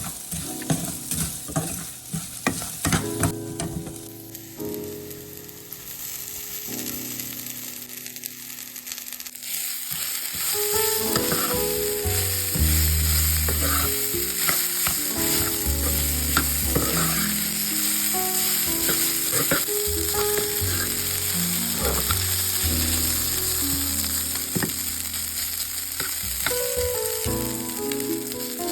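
A steady sizzling hiss, louder from about ten seconds in, under soft background music with slow held notes and a low bass line.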